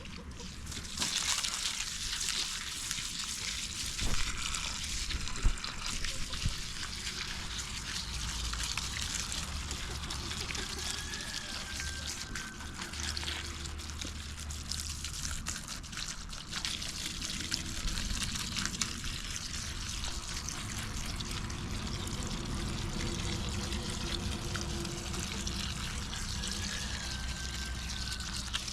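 Water running and trickling steadily, with a few knocks in the first several seconds and two faint short whistled tones, one about 11 seconds in and one near the end.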